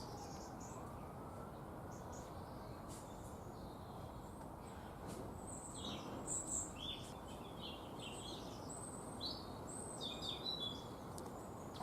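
Small garden birds chirping and calling in short bursts, busier in the second half, over a steady low background rumble.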